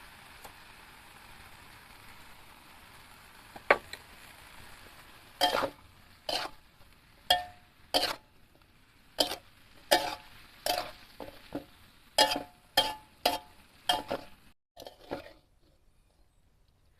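A metal utensil knocking and scraping against a cooking pan about a dozen times at a steady pace, over a continuous hiss. Both stop abruptly near the end.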